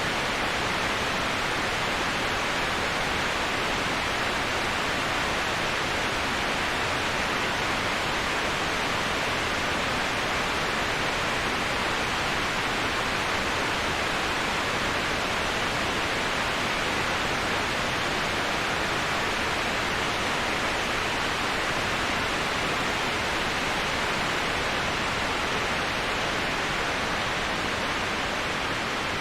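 Waterfall: a steady, unbroken rush of falling water with no changes or separate splashes.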